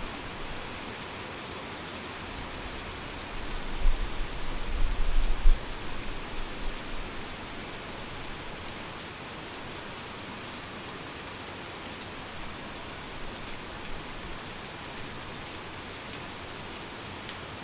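Heavy rain falling steadily, an even dense hiss. About three and a half seconds in, a few seconds of deep low rumbling thumps rise over it and fade.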